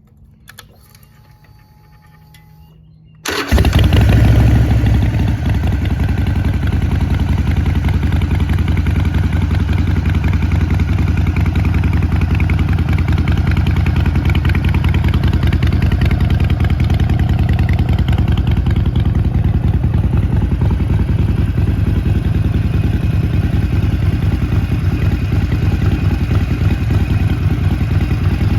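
2017 Harley-Davidson Sportster 48's 1200 cc air-cooled V-twin starting about three seconds in, firing with a brief surge, then settling into a steady idle through Vance & Hines Shortshots exhaust pipes fitted with quiet baffles.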